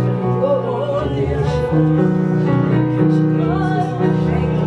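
Slow worship music: a keyboard holds sustained chords that change every couple of seconds, while a voice sings a wavering melody over them.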